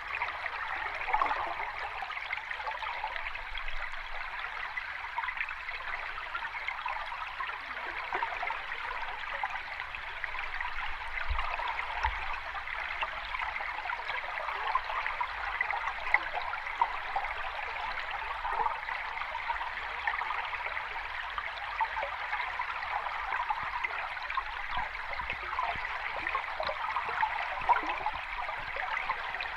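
Continuous water sound, a steady rush with small splashes and gurgles, even throughout, with no rise and fall of breaking waves.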